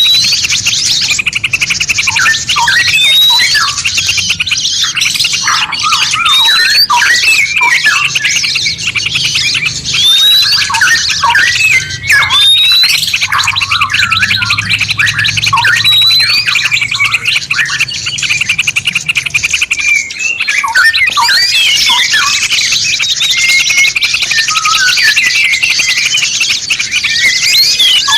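Several songbirds singing at once: a dense run of fast trills and chirps, cut through every few seconds by a short rising whistle. This is a masteran mix of cage-bird song used to teach songbirds to sing.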